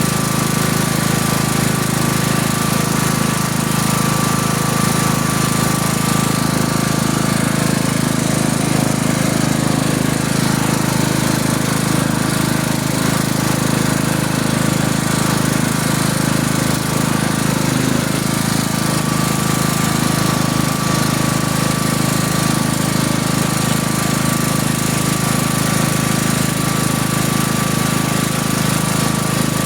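A vehicle engine running steadily at constant speed, with a thin steady whine above the engine note.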